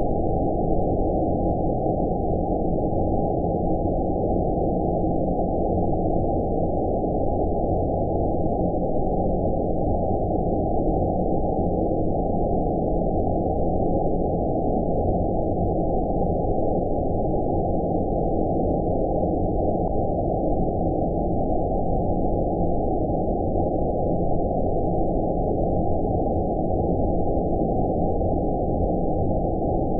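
Steady, deep, muffled noise with no treble, the even hiss of filtered 'outer space' white noise made as a sleep sound.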